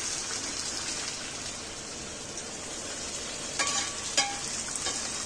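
Chicken pieces sizzling in hot oil and masala in a metal kadhai while being stirred, a steady frying hiss. A couple of sharper clinks of the utensil against the pan come near the end.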